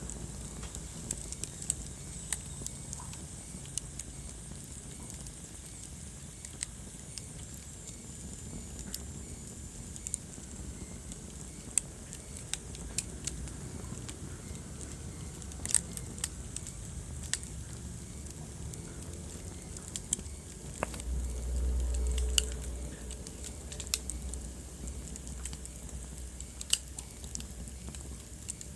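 Wood fire crackling in a fireplace: irregular sharp pops and snaps over a low, steady rumble of the flames, which swells briefly about three-quarters of the way through.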